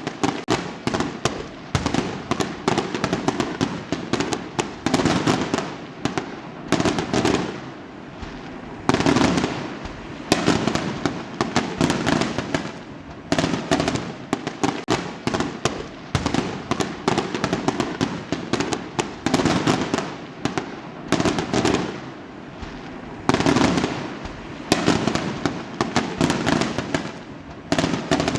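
Fireworks crackling: clusters of rapid sharp pops follow one another every second or two, with only short lulls between them.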